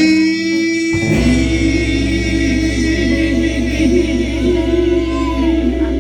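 Gospel singing: a voice holds one long note at the start, then the singing goes on with wavering, ornamented pitches. About a second in, a steady low instrumental drone comes in beneath it.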